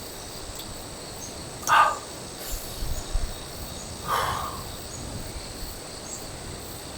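Insects chirring steadily. Two short, loud animal calls cut across it, about a second and a half in and again about four seconds in; the second drops in pitch at its end.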